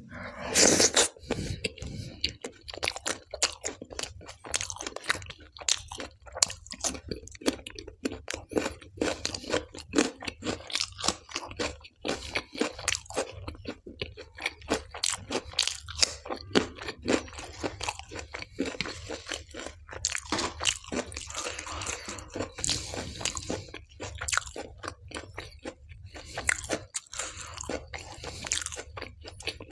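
Close-miked chewing of dal-soaked tandoori naan eaten by hand: wet, smacking mouth sounds with crunching and a rapid run of clicks, loudest in the first second as a big mouthful goes in.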